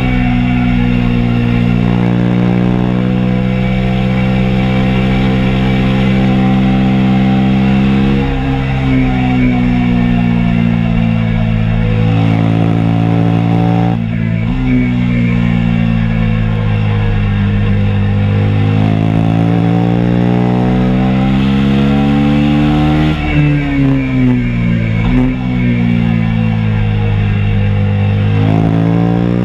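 KTM RC 390's single-cylinder engine at track speed, heard from onboard: the revs climb and drop through gear changes. Near the end a few quick jumps in pitch come as it downshifts while the bike slows.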